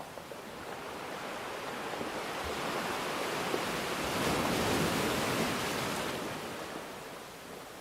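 Surf: one wave washing in, a rush of water noise that swells to a peak about halfway through and then fades again.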